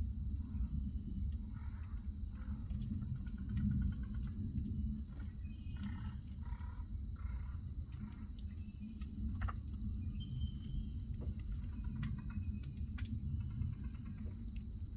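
Outdoor backyard ambience: a steady, high-pitched insect drone, with short bird chirps scattered through it and a low rumble underneath.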